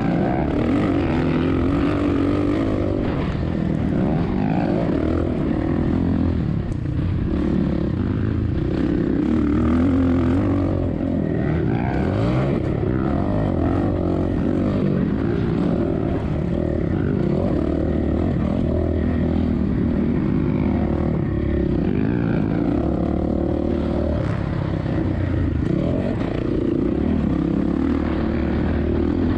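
2007 Suzuki RM-Z450's single-cylinder four-stroke engine being ridden hard, revs rising and falling continuously through gear changes and corners, with wind on the microphone.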